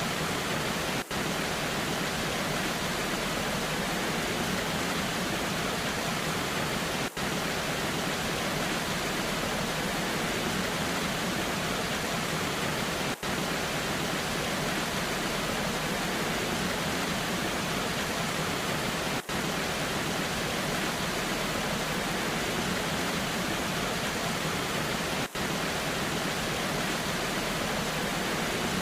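Steady rushing of a waterfall in the rain: an even hiss with no single splash standing out, broken by a very brief dip in level about every six seconds.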